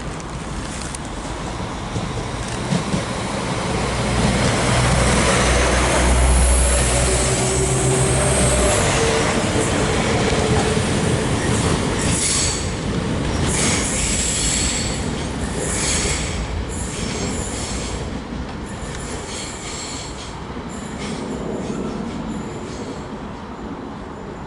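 Train passing through a station: a low drone that builds and is loudest about four to nine seconds in, a high wheel squeal, then a run of clicks from the wheels over the rail joints as it goes by and fades.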